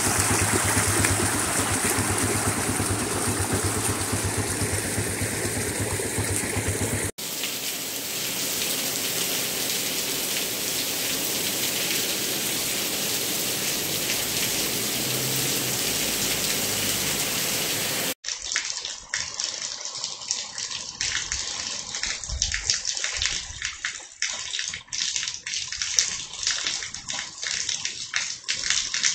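Muddy rainwater runoff rushing over rock with an even noise. After a cut about 7 seconds in, steady rain. After a second cut about 18 seconds in, rain with many short, sharp drop ticks.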